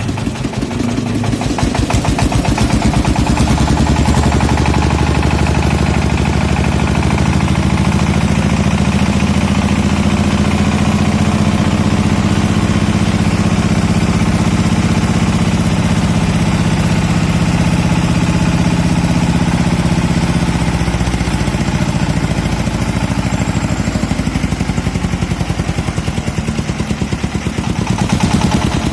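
Diesel engine running steadily with a fast, even firing beat. It picks up a little about two seconds in and eases back slightly about twenty seconds in.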